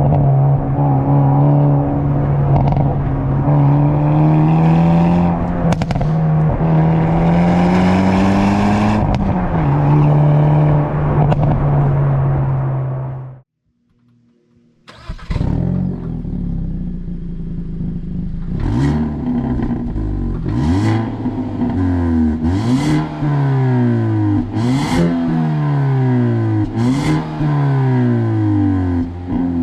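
The 2.0-litre turbocharged four-cylinder engine and exhaust of a Hyundai i30 Sedan N under hard driving. The revs climb steadily for several seconds, then the sound cuts out briefly. It comes back with the revs repeatedly rising and dropping as the gears change, and sharp cracks come about every two seconds.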